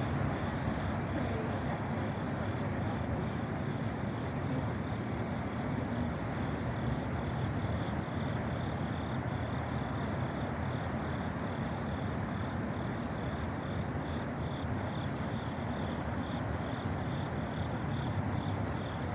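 Steady outdoor city background noise with a low traffic rumble, and a faint high chirp repeating evenly about twice a second throughout.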